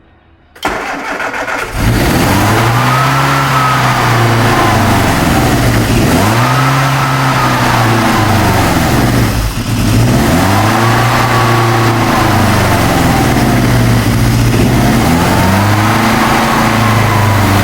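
The rebuilt four-cylinder engine of a 1966 Morris Cooper S cranks briefly and catches about two seconds in, then runs fast with its speed surging up and down about every three to four seconds. This is hunting at a high idle, a sign that the fast and slow idle settings are still well off.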